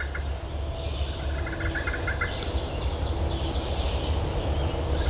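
A small songbird singing a rapid, even trill of short notes about a second long, heard twice, over a steady low rumble.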